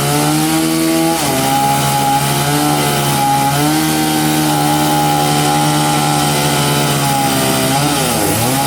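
Chainsaw cutting into a large hardwood log, running steadily under load, its pitch sagging briefly about a second in and again near the end as the chain bites.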